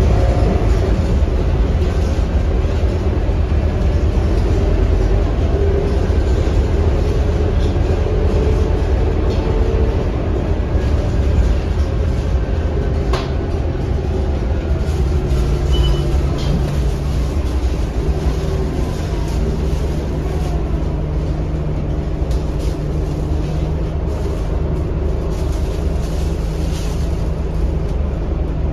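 Scania K230UB bus with its five-cylinder diesel engine running on the road, a heavy, steady low rumble of engine and road noise. A steady low hum comes in about halfway through and holds.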